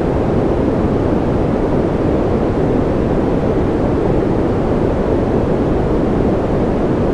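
Continuous white-noise track for baby sleep: a steady, dull rushing hiss weighted toward the low and middle range, with no changes or breaks.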